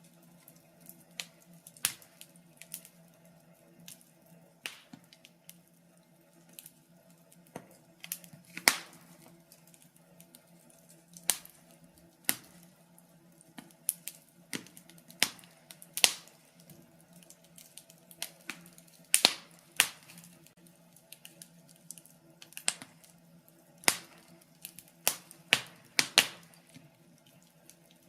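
Wood fire crackling in a fireplace: irregular sharp pops and snaps, several louder ones, over a faint steady low hum.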